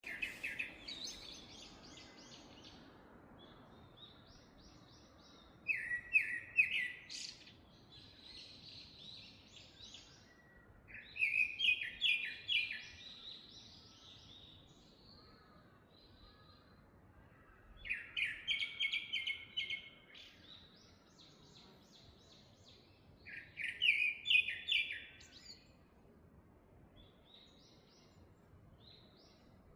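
Forest birds singing: one bird repeats a short song of quick notes about every six seconds, with fainter calls from other birds in between.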